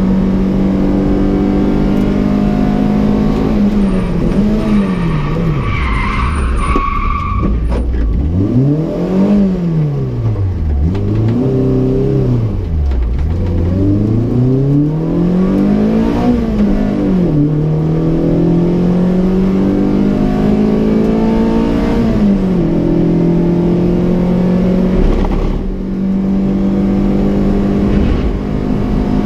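Peugeot 106 Rallye S1's 1.3-litre eight-valve four-cylinder engine, heard from inside the car through a 4-2-1 manifold and Pugsport exhaust. It holds steady at speed, then drops through downshifts under hard braking, with a brief tyre squeal about six seconds in. Through the slow section the revs fall low and rise again several times, then climb through the gears back to a steady drone.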